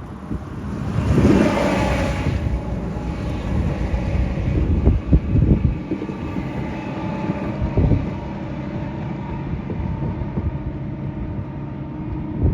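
Wind buffeting the microphone in gusts, strongest about a second in, over a faint steady hum.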